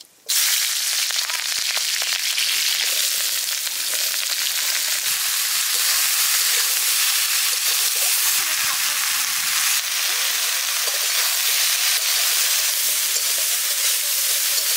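Cubed vegetables frying in hot oil in an aluminium kadai, a loud steady sizzle that starts suddenly just after the start. The vegetables are turned now and then with a metal spatula.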